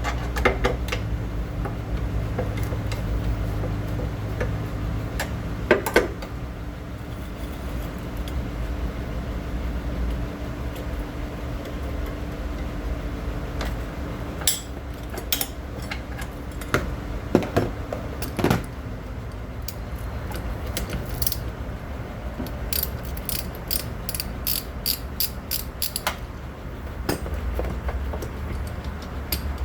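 Ratchet wrench clicking in short runs, faster and more even near the end, with scattered knocks and clinks of metal tools over a steady low hum.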